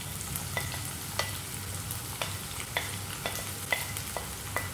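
Chopped onion frying in hot oil with a steady sizzle, over about a dozen irregular light taps and scrapes, some briefly ringing, as a wooden spatula pushes the onion off a ceramic plate into the pan.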